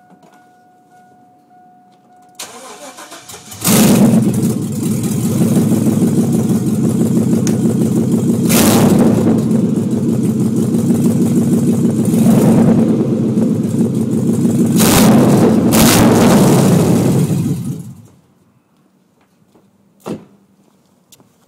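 GMC Yukon XL 3/4-ton V8 started through its loud exhaust: a steady chime, then the starter cranks briefly and the engine catches about four seconds in. It runs loud and rumbling with four short bursts of throttle, then is switched off and stops abruptly about 18 seconds in.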